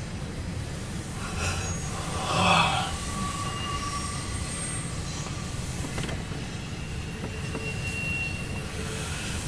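CSX intermodal freight train of double-stack container cars rolling past, heard from inside a car: a steady low rumble of wheels on rail with wheel squeal. The squeal is loudest about two and a half seconds in, and thin high squeals come and go later.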